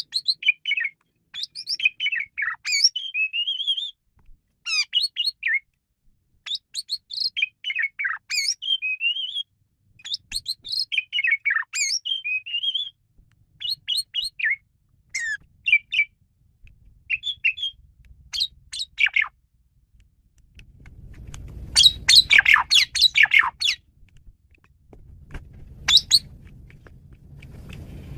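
Male Asian pied starling (jalak suren) singing a varied song of whistles and chirps in short phrases with brief pauses. About 21 seconds in comes a dense run of rapid scratchy notes.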